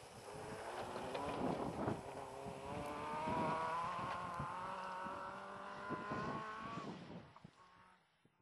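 Rally car engine running at high revs, its note climbing slowly and steadily, then fading away about seven seconds in.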